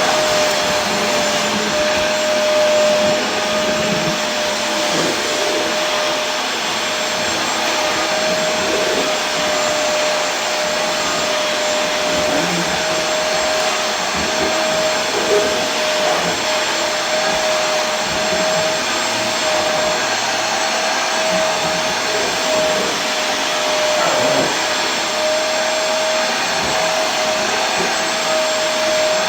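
Vacuum cleaner motor running continuously, a steady rushing hiss with a constant whine.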